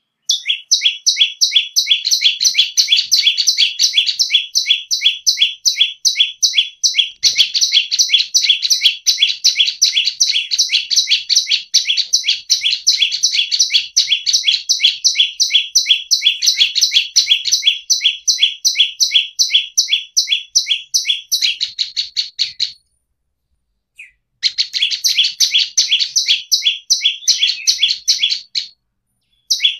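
Prenjak lumut singing a fast, steady string of high chirping notes, about four or five a second. The notes briefly break off around 23 seconds in, then resume, and stop shortly before the end.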